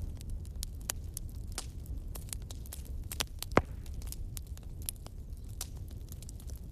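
Wood fire in a fireplace crackling with irregular snaps, and one louder pop about three and a half seconds in, over a steady low rumble.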